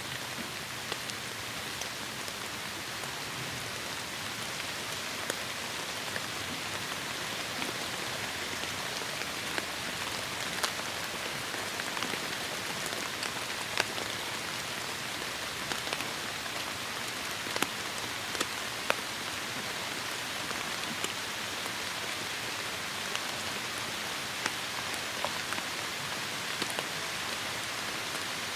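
Steady heavy rain, an even hiss with scattered sharp drips and pattering drops standing out every second or so.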